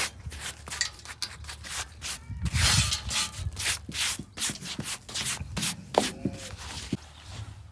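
Irregular rubbing and scraping, a quick series of short strokes, loudest a little under three seconds in.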